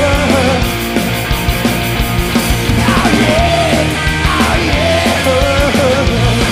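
Punk rock song: drums, guitars and a sung vocal line.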